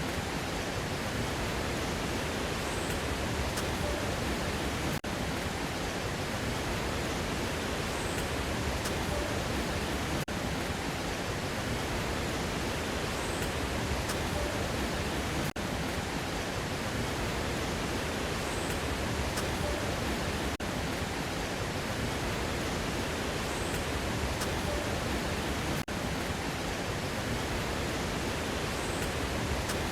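Steady rushing noise of a waterfall, an even hiss with no changes, repeating exactly about every five seconds like a looped recording.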